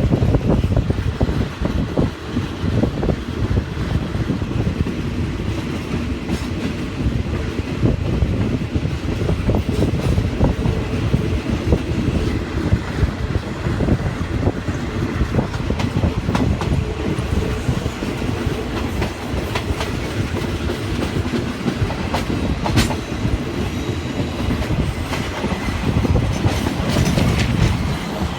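Old passenger train running along the line, a steady low rumble with wheels clacking over the rail joints.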